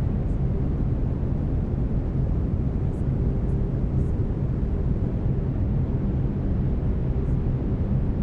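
Steady brown noise, a deep even rumbling hiss weighted toward the low end, with faint steady low tones from binaural beats underneath.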